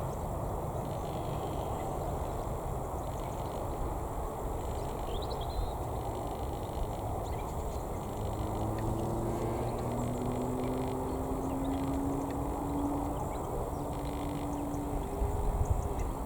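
Distant Airbus A319 jet airliner, a steady low rumble; from about halfway, a low engine hum comes in and slowly rises in pitch.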